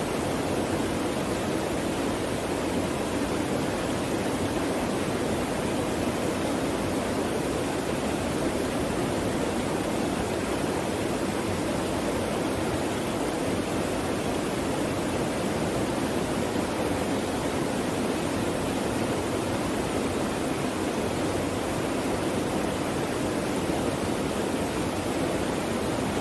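Clear stream water flowing and splashing steadily, an even rushing sound with no breaks.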